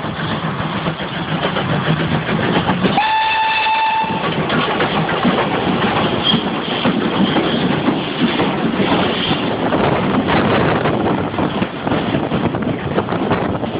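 Peckett 0-6-0ST saddle tank steam locomotive running hard with two coaches, its exhaust and wheels clattering and growing louder over the first few seconds. About three seconds in it gives one whistle blast lasting about a second.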